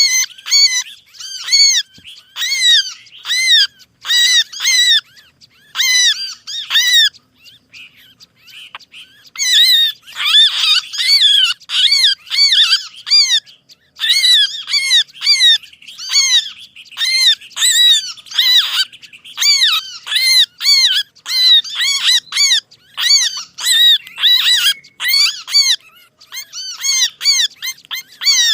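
Bird-luring recording of small songbirds' agitated chattering calls: rapid strings of short, arched, high-pitched notes repeated several times a second, with a short pause about eight seconds in.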